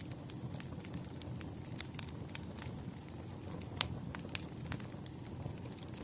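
Wood fire crackling: irregular sharp pops and snaps of burning firewood over a low steady rumble, the loudest pop about two-thirds of the way in.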